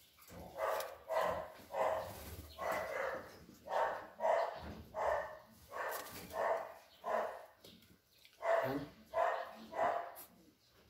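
A dog barking over and over, about two barks a second, with a short pause about eight seconds in.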